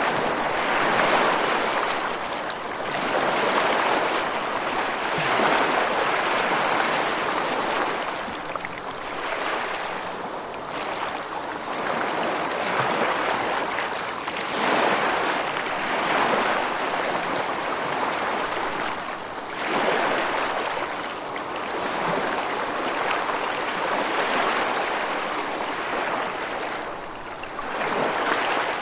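Continuous rushing water, a steady hiss that swells and eases every few seconds.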